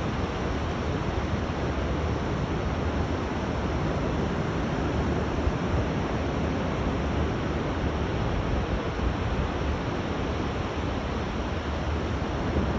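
Rough sea surf breaking on the shore, a steady rush of waves with wind rumbling on the microphone.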